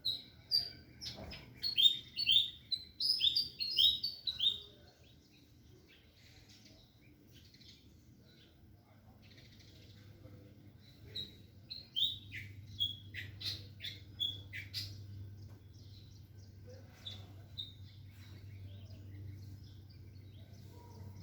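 Small birds chirping: quick runs of short, falling chirps in the first few seconds and again in the middle, with a faint steady low hum underneath.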